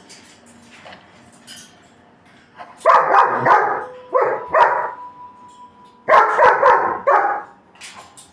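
German shepherd barking in three quick runs: three barks, then two, then four.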